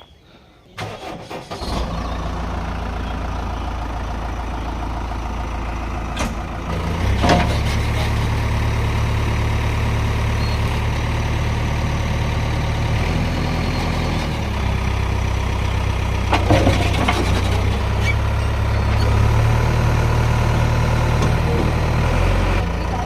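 A heavy diesel engine starts about a second in and runs steadily, getting louder twice as it is worked harder, with a few sharp knocks.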